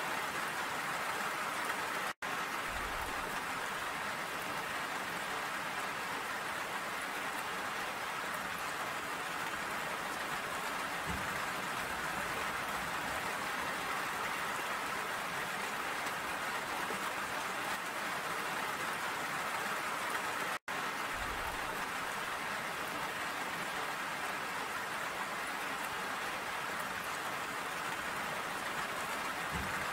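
Steady rain falling, an even hiss of drops without let-up. The sound cuts out for an instant twice, about two seconds in and about twenty seconds in.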